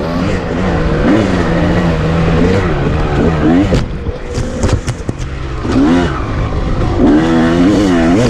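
Two-stroke dirt bike engine revving up and down under changing throttle, its pitch rising and falling repeatedly, easing off briefly around the middle before picking up again. Scattered sharp knocks from the bike over rough ground.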